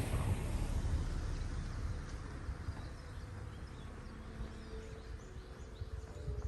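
Faint, short, high chirps of small songbirds, starting about a third of the way in, over a low outdoor rumble that is strongest in the first two seconds and then eases.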